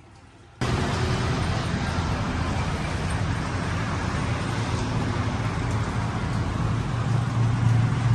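Road vehicle noise, a steady rush with a low hum that grows louder near the end, starting abruptly about half a second in.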